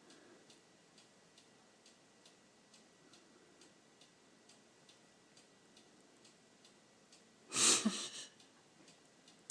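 A clock ticking steadily in the room, about two ticks a second, with a short loud burst of noise about seven and a half seconds in.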